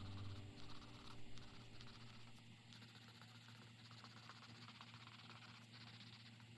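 Faint, light scratching of colored pencils stroking across paper, with a low music note dying away in the first half second.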